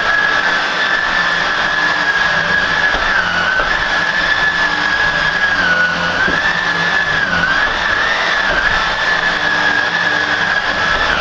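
Hoover WindTunnel Air upright vacuum cleaner running, a loud steady motor whine whose pitch dips briefly a few times around the middle.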